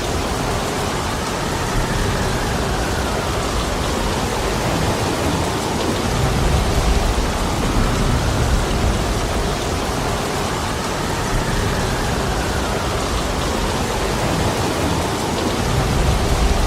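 Heavy rain pouring steadily, a dense even hiss, over a low rumble that swells and eases.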